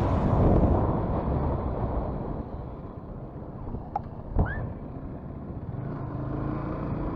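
Motorcycle running on the move: a rumble of engine and road noise that fades over the first few seconds. A short click and a brief rising chirp come about four seconds in.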